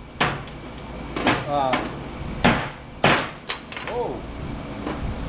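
Wedge hammer striking HID light ballast transformers to shear them apart, giving four sharp metal blows about a second apart, with a lighter knock after the last one.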